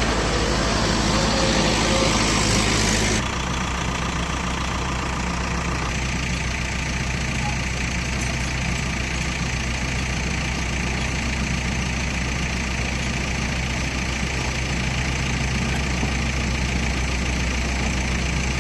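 Diesel engine of an earthmoving machine running steadily at idle. About three seconds in the sound changes abruptly and gets a little quieter, then runs on steadily.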